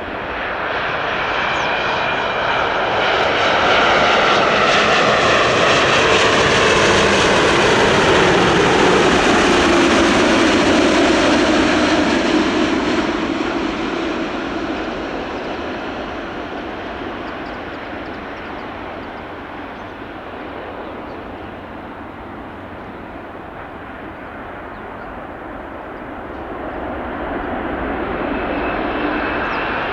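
Jet airliner passing close by: its engine noise swells and the whine slides down in pitch as it goes past, then fades. Near the end the engine noise builds again.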